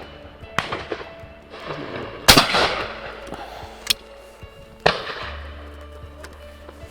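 Shotgun shots at high-flying driven partridge: two loud reports about two and a half seconds apart, each with a long rolling echo, among a few fainter, more distant shots.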